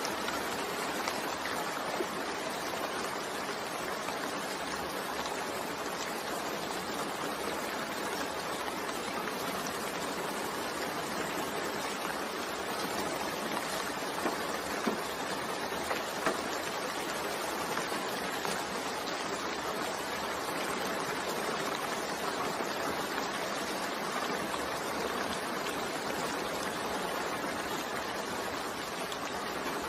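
Steady, continuous rainfall, an even hiss of many drops, with a few sharper drop ticks around the middle.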